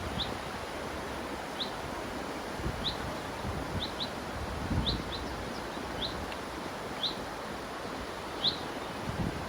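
A river rushes steadily while a small bird gives short, high, upward-flicking chirps about once a second. A few soft low thumps, like gusts on the microphone, come and go, the strongest about five seconds in.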